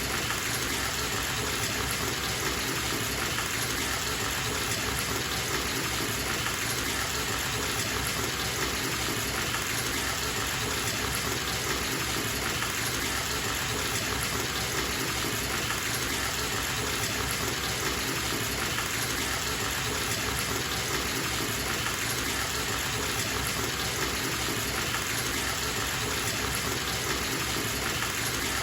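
Bathtub tap running steadily, water gushing into the tub.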